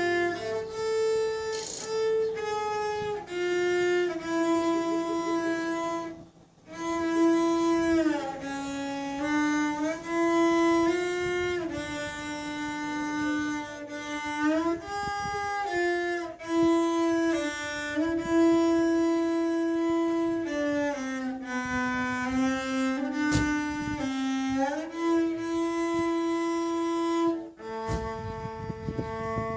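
Solo violin playing a slow melody of long held notes, with slides between some of them and a brief pause about six seconds in.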